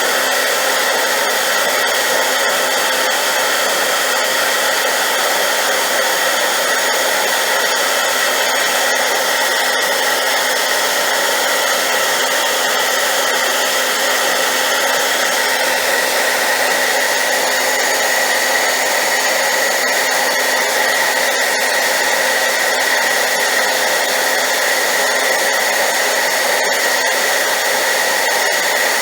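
Hair dryer running loud and unbroken on high power: a steady rush of air with a motor whine held at one pitch.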